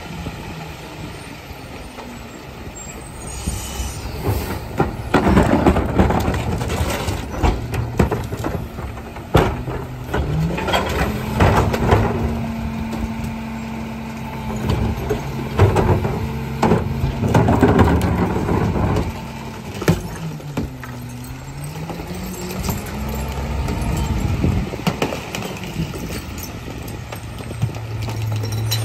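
Garbage truck working a pickup: the engine revs up about ten seconds in, holds high for about ten seconds and drops back, while bins bang and clatter repeatedly against the truck.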